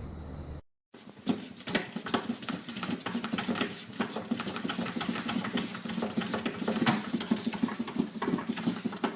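A pet's feet pattering quickly and unevenly on a hard floor: a dense run of small clicks and taps.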